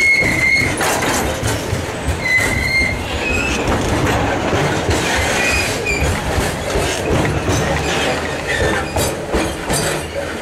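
Freight train hopper cars rolling past close by: steel wheels clattering and knocking over the rail joints, with several short, high wheel squeals. The sound eases off near the end as the last car passes.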